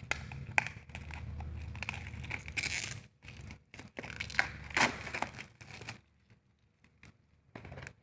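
Packaging being torn and crinkled as a box is unwrapped, in bursts over about six seconds. Then it falls mostly quiet with a few small clicks.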